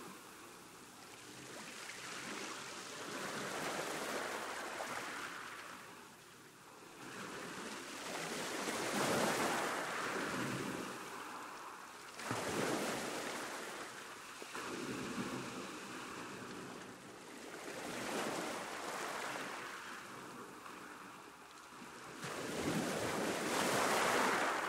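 Ocean waves breaking and washing on a shore, surging and receding in irregular swells, with the loudest breaks about nine, twelve and twenty-three seconds in.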